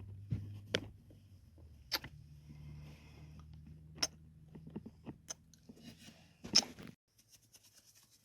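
Close-miked kissing sounds: about five wet lip smacks, roughly one a second, with softer mouth clicks between them. They stop suddenly near the end, leaving faint ticking.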